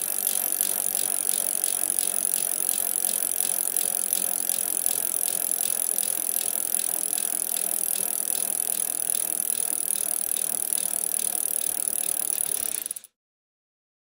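Bicycle sound effect: a bicycle rolling along with an even, rapid ticking that cuts off suddenly about a second before the end.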